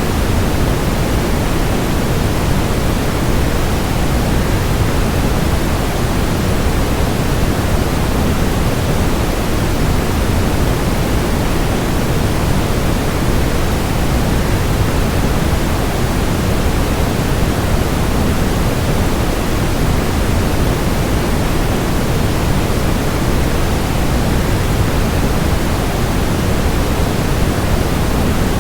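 Steady, even rushing noise of a waterfall blended with white noise, heaviest in the low end and unchanging.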